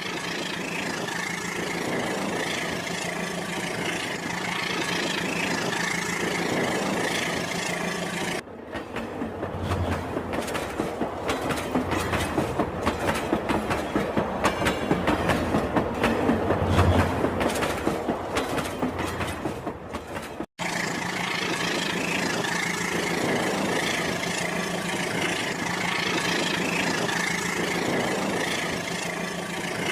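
Rail King toy train running on its track, with a steady motor hum. In the middle comes a stretch of rapid, even clicking, then the hum returns after an abrupt cut.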